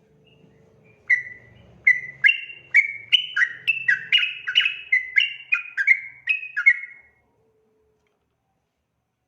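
Yellow-vented bulbul (trucukan) singing a long, rapid, bubbly song phrase: about fourteen loud, sharp notes one after another, starting about a second in and stopping abruptly near seven seconds.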